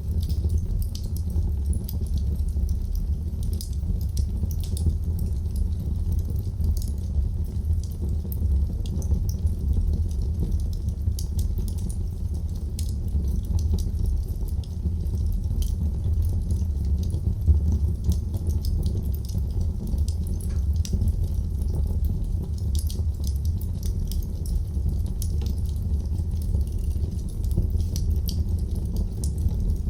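Wood fire in a fireplace crackling: many small, irregular pops and snaps over a steady low rumble of the flames.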